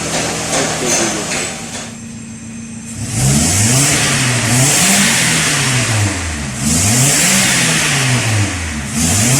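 Freshly rebuilt Nissan engine running steadily, then, after a short lull about two seconds in, revved up and down over and over, its pitch rising and falling roughly every second and a half.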